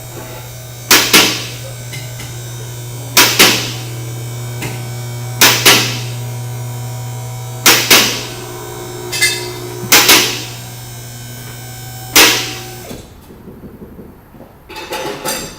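Hydraulic vehicle lift raising a car: the pump motor runs with a steady hum while the lift's safety locks clack in pairs about every two seconds. The motor stops about thirteen seconds in.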